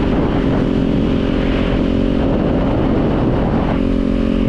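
Kawasaki Z400's parallel-twin engine running at fairly steady revs while riding, its pitch drifting slightly; about three and a half seconds in the higher part of the engine note falls away and it runs softer.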